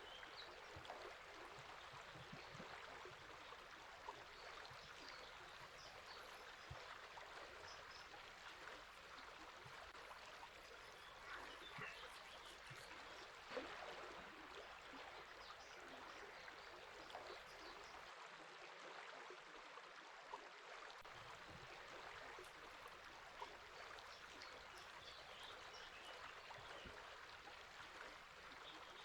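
River water flowing steadily, a faint, even rushing and babbling.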